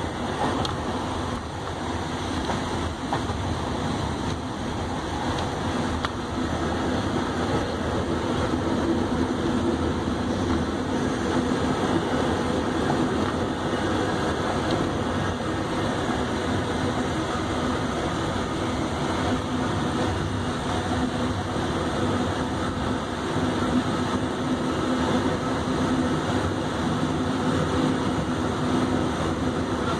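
Steady running noise of a moving passenger train heard from on board the coach: wheels rolling on the rails with the coach's rumble and rattle.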